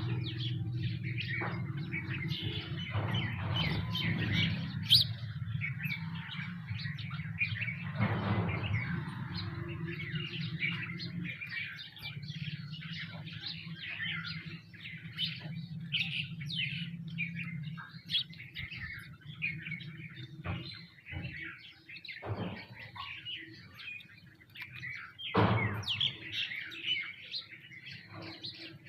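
A flock of sparrows and other small birds chirping busily and continuously while they feed, many short overlapping chirps. Under them runs a low steady hum that stops about two-thirds of the way through, and there are a few brief thumps, the loudest near the end.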